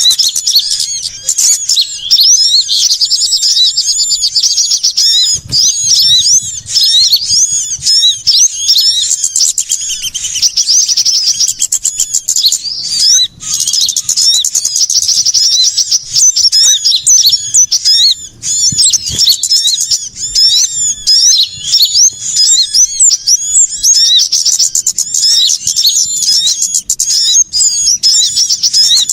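Bird-lure recording of many small birds calling at once: a loud, dense, unbroken tangle of high chirps, slurred notes and trills. These are the agitated 'ribut' calls of small birds such as sunbirds, played to draw small birds in.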